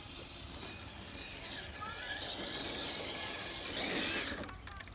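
Traxxas TRX4 RC crawler truck's electric motor and gears whirring as it drives, growing louder over a few seconds, with a short rising whine and a brief louder rush near the end.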